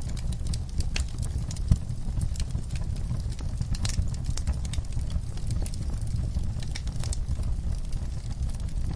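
Log fire crackling, with frequent irregular sharp pops and snaps over a low, steady rumble of the flames; one pop a little under two seconds in is louder than the rest.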